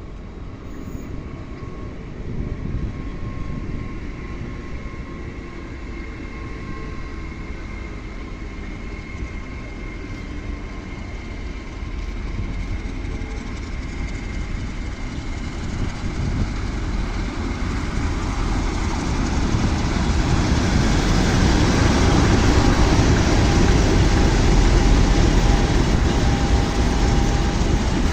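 A train approaching on the line, its rumble growing steadily louder through the second half and loudest near the end.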